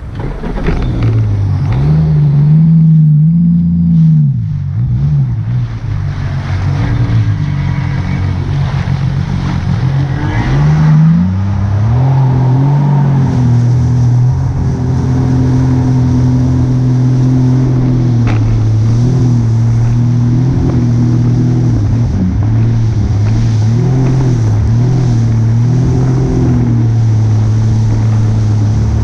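Boat engine running under way. Its pitch drops about four seconds in, climbs again around eleven seconds in, then holds steady.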